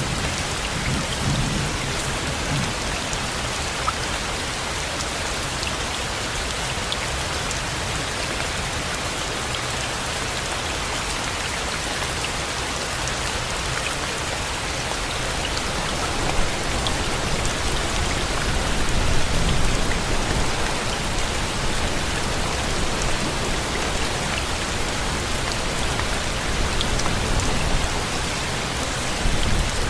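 Steady rain falling in an even hiss. Low rumbles of distant thunder come right at the start and again swell up about two-thirds of the way through.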